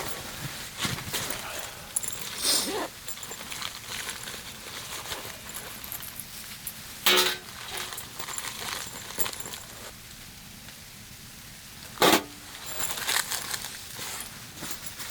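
Handling noises: scattered rustles and light knocks, with two sharp clinks about seven and twelve seconds in.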